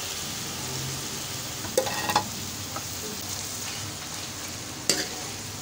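Marinated chicken pieces sizzling as they go into hot oil and ginger-garlic paste in a wok. A few sharp clinks of the steel spoon against the pan come about two seconds in and again near the end.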